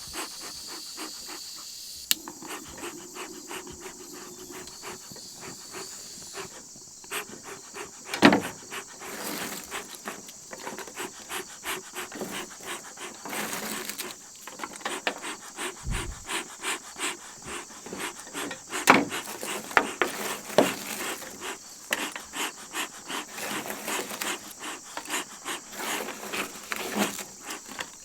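Bee smoker bellows being pumped, giving a run of quick, rhythmic breathy puffs from about a third of the way in, with crickets chirping steadily behind them.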